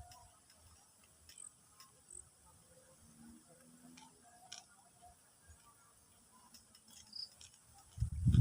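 Faint steady high-pitched insect trilling with scattered soft clicks; just before the end a loud low rumbling noise starts.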